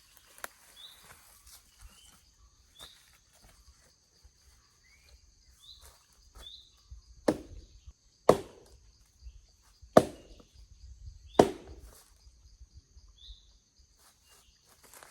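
Chopping into resin-rich pine wood (fatwood), four sharp blows in the middle, about one to one and a half seconds apart, with a few lighter knocks around them.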